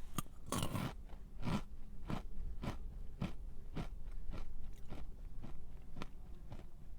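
A person biting into a crunchy snack, then chewing it with crisp crunches about two times a second.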